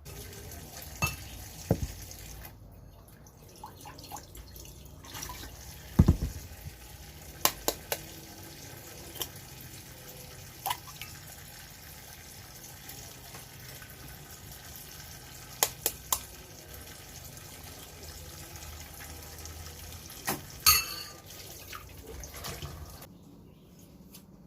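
Kitchen tap running into a sink, with several sharp clinks and knocks of dishes being handled. The water stops shortly before the end.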